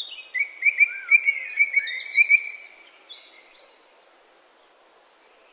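Birds chirping: a quick run of short rising chirps through the first two seconds or so, then fainter scattered calls.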